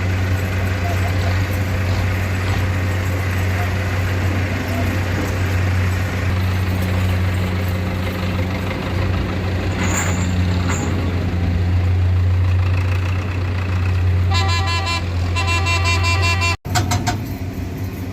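Belarus tractor's diesel engine running steadily with a deep hum. Near the end a vehicle horn toots in quick repeated pulses for about two seconds.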